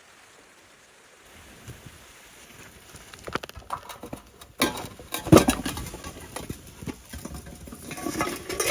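Irregular knocks and clicks starting after a quiet first second and growing busier, with one loud sharp knock about five seconds in.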